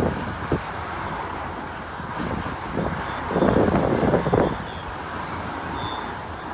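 Cars of a procession driving past in a steady stream, with wind noise on the microphone. The rumble swells louder between about three and four and a half seconds in.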